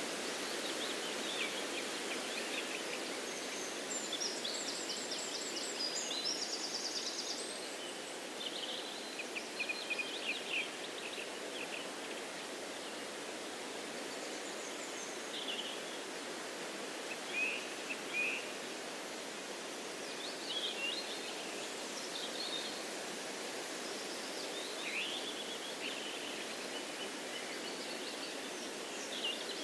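Steady wind rustling through trees, with songbirds chirping and trilling at intervals, including a quick run of rapid high trills a few seconds in.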